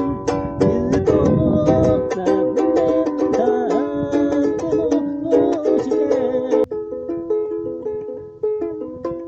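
Ukulele playing, strummed chords mixed with plucked melody notes, with no singing; a sudden short drop about two-thirds through, after which the sound is thinner.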